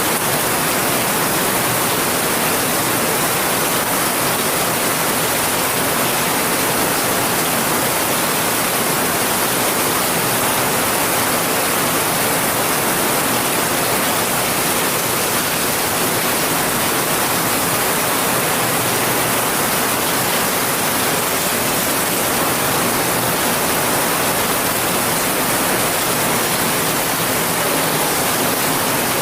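Steady, dense rain, an unbroken hiss with no separate drops, thunder or changes.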